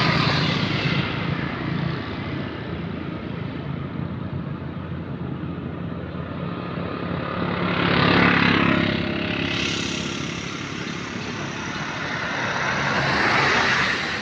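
Road traffic: two vehicles pass by, one about eight seconds in and another near the end, each swelling and fading, over a steady engine hum.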